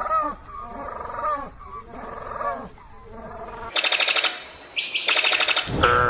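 Animal calls: a run of short pitched calls that rise and fall, then from about four seconds in a fast rattling chatter, with another drawn-out call starting near the end.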